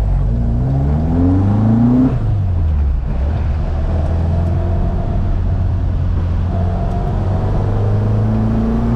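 1975 Ford Escort Mk1 ex-rally car's four-cylinder engine pulling under acceleration. The revs rise, drop sharply at a gear change about two seconds in, hold steady, then climb again near the end.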